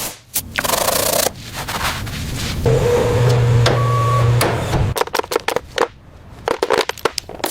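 Workshop work sounds: scraping and rubbing, then a small power tool's motor hums steadily for about two seconds in the middle, followed by scattered clicks and taps.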